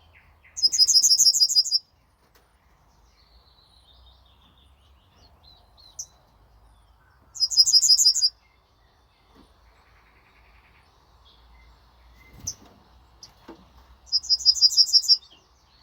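Yellowhammer singing: three song phrases about six and a half seconds apart, each a quick run of repeated high notes lasting about a second. Fainter, scattered notes of other birds come between the phrases.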